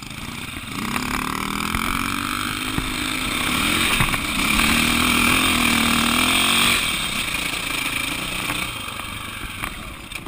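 Dirt bike engine under load: it picks up about a second in, revs up and runs hardest through the middle as the bike climbs a steep dirt hill, then drops back to a lower, quieter run near the end.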